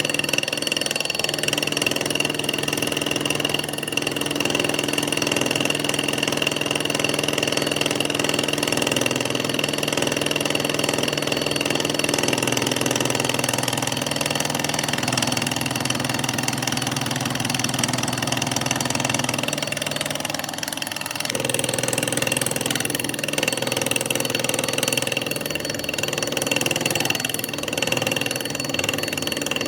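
A workshop machine running steadily with a continuous motor hum and a steady high whine; its lower tones change pitch a couple of times, about twelve and twenty-one seconds in.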